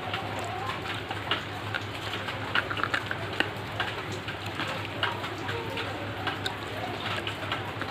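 Close-up chewing of a crunchy snack: irregular crunches and crackles in quick succession, over a faint steady low hum.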